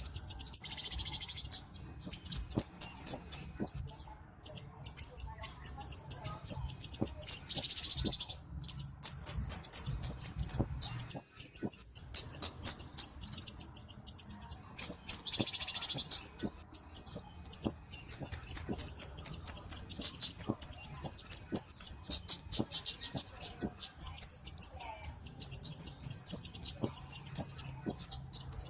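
Flowerpecker (cabe-cabean) calling: rapid runs of high, thin ticking notes, roughly ten a second, in bursts of a few seconds separated by short pauses.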